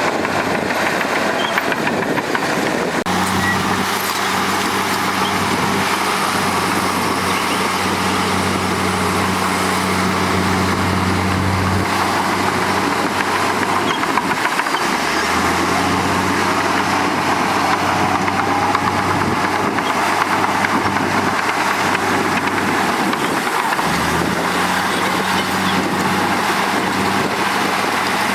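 Heavy diesel engine of earthmoving machinery running under load with a steady low hum that changes pitch a few times, over a constant noisy rumble.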